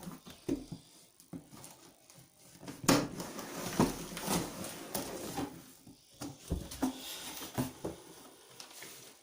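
Cardboard shipping box being opened and its packaging handled: irregular rustling and scraping with scattered knocks.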